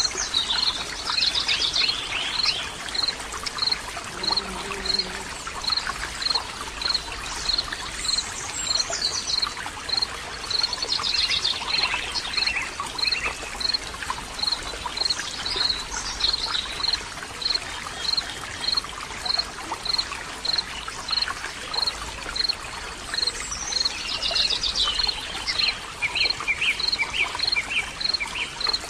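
A stream of running water, with birds singing several short phrases over it and one short high note repeated evenly, about one and a half times a second.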